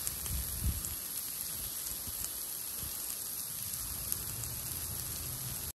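Bacon, onions, peppers and mushrooms sizzling in a cast-iron skillet on a camp stove: a steady hiss with fine crackles, and a dull low bump under a second in.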